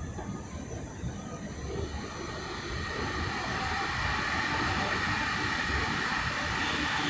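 Stockholm metro train running, a low rumble with a rushing hiss that swells about two and a half seconds in and then stays loud.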